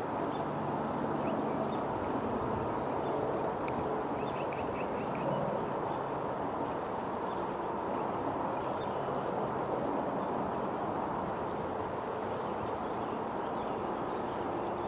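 Ducks quacking over a steady rushing background noise, with a few faint high chirps about four seconds in.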